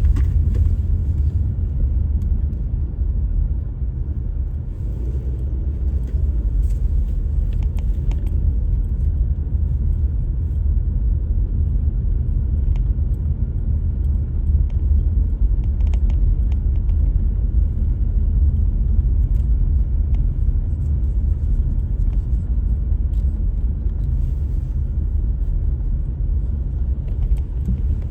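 Steady low rumble of a car being driven, road and engine noise as heard inside the cabin, with a few faint ticks.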